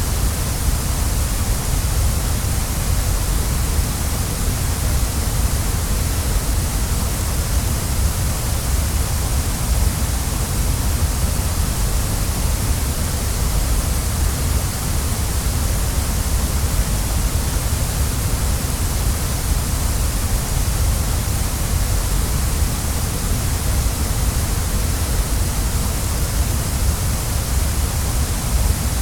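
Waterfall running: a steady, even rush of falling water with a deep low rumble and a hissing top, unchanging throughout.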